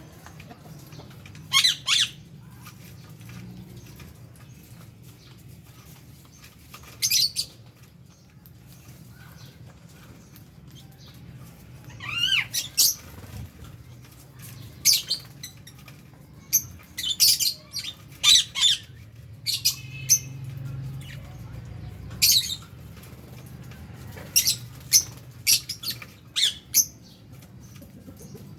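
Lovebirds in an aviary giving short, shrill squawking calls, a few at first and then a busier run of calls through the second half, over a steady low hum.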